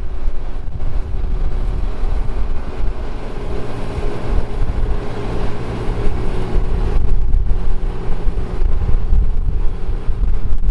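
Engine of vintage farm machinery running under heavy wind buffeting on the microphone; the machine gets louder a couple of seconds in and drops away sharply about seven seconds in.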